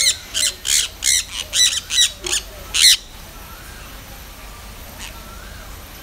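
Birds squawking: about eight short, harsh calls in quick succession over the first three seconds, then the calling stops.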